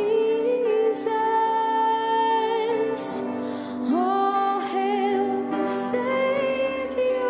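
A group of singers holding long sustained notes with vibrato in a slow worship song, several voices at once, over instrumental accompaniment; the notes change pitch about four and six seconds in.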